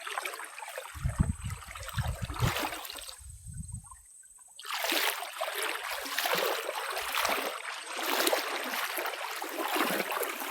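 Running water, a steady rushing and trickling like a stream, with low rumbles of wind on the microphone in the first few seconds; the sound drops out abruptly for about a second and a half partway through, then returns.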